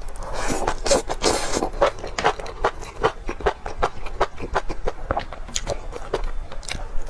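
Close-miked eating: a person chewing and biting, giving an irregular run of short wet clicks and crunches, several a second.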